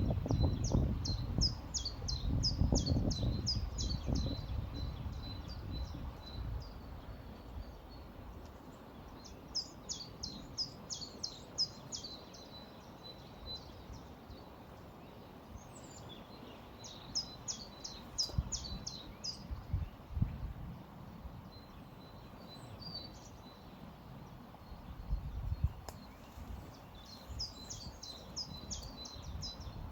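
A songbird singing a phrase of rapid, high repeated notes, about 2 to 3 seconds long, four times at intervals of roughly eight seconds. Beneath it runs a low, uneven rumble that swells in the first few seconds and again twice later.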